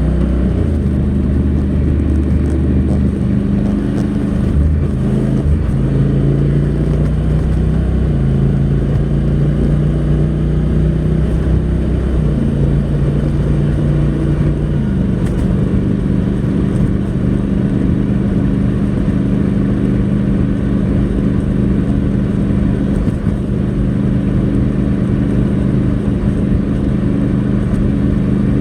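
Honda NC700X's parallel-twin engine with its stock exhaust running under way, the DCT gearbox's shifts changing the engine pitch in steps over the first fifteen seconds or so; it then holds at a steady cruise.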